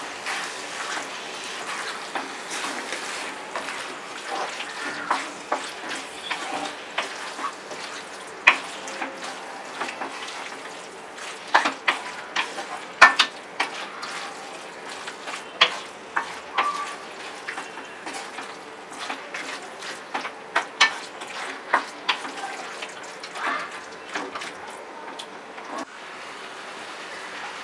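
Chicken pieces frying and sizzling in a kadai as a spatula stirs them, clacking and scraping against the pan at irregular moments; the clacks thin out near the end, leaving mostly the sizzle.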